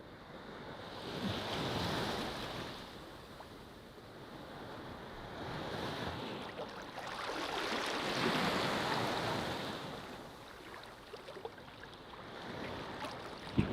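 Ocean waves washing onto a beach, rising and falling in slow surges: a smaller wave about two seconds in and a longer, bigger one from about seven to ten seconds in.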